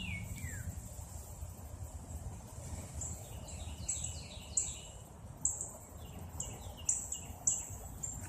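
Birds calling: a single falling whistle at the start, then from about three seconds in a run of repeated high notes, each dropping into a short falling phrase. A steady low rumble of background noise runs beneath.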